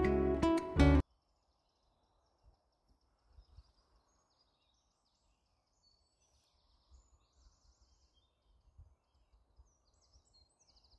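Strummed acoustic guitar music that cuts off suddenly about a second in, followed by faint scattered bird chirps over faint low rumbles.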